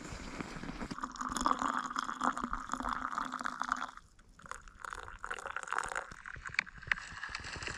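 Liquid being poured in a steady stream, stopping briefly about four seconds in and then starting again, with small ticks throughout.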